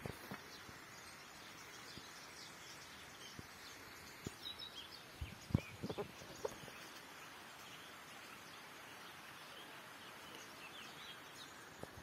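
Small birds chirping in many short, scattered calls over a steady outdoor hiss, with a few knocks and thumps near the middle.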